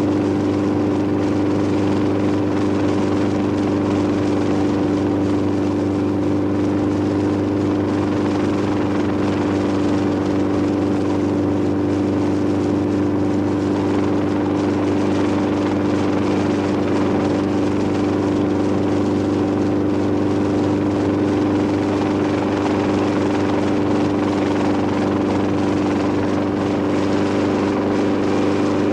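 An engine running steadily for the whole stretch, a constant drone with one strong steady hum and no change in speed.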